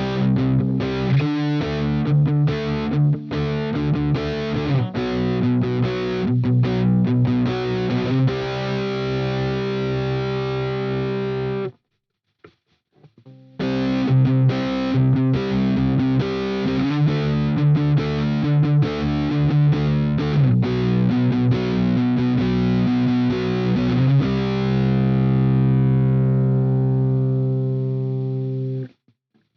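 Harley Benton Telecaster-style kit electric guitar played through distortion: a run of chords, a break of about a second and a half, then more chords, ending on one held chord that rings for about five seconds before it is cut off.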